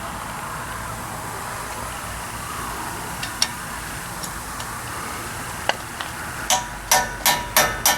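Light hammer taps on steel, about three a second with a short metallic ring, starting near the end after a few scattered clicks. The taps seat a distorted, stake-marked nut or lock washer on a medium-duty truck's front axle spindle.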